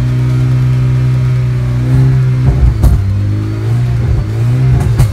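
Car engine revving: a steady drone for about two seconds, then the pitch rises and falls a couple of times in the second half.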